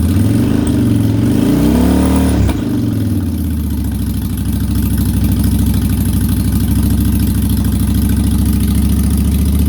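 A 2004 Yamaha V-Star 1100's air-cooled V-twin, still warming up after a cold start, is given a little throttle. The revs climb for about two seconds, then drop back sharply at about two and a half seconds, and it settles into a steady, low idle.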